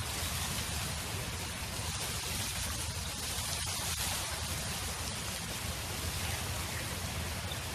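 Steady wind noise: an even rushing hiss over a low rumble, with no change in level.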